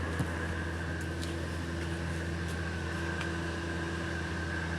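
A steady machine hum with a constant high whine over it, and a few faint ticks.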